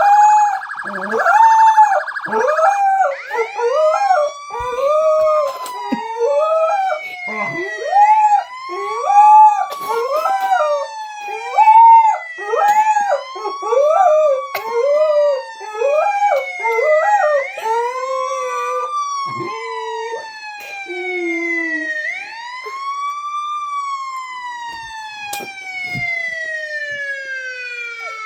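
Police car siren wailing, its pitch slowly rising and falling over a few seconds at a time. A dog woofs along in short, loud, rising-and-falling calls about once a second, stopping about two-thirds of the way through and leaving the siren wailing alone.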